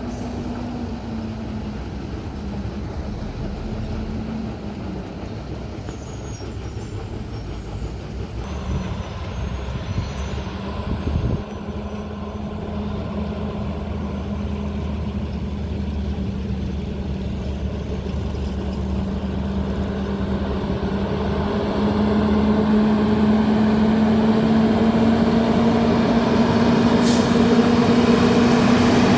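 Truck engine running steadily over road noise, growing louder in the last third. A single knock comes about eleven seconds in, and a brief hiss near the end.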